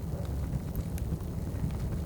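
Wood fire crackling: scattered small pops and snaps over a steady low rumble, mixed with cafe background noise.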